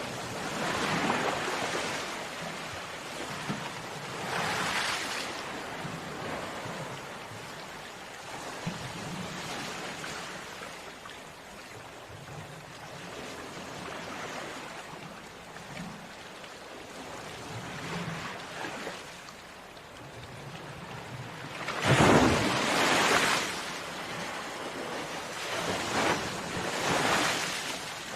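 Sea waves breaking on a shore, a steady wash with surges every few seconds; the biggest wave breaks about three quarters of the way through.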